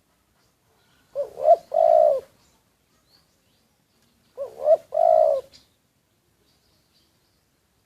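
Spotted dove cooing: two calls about three seconds apart, each a quick pair of short notes followed by a longer coo.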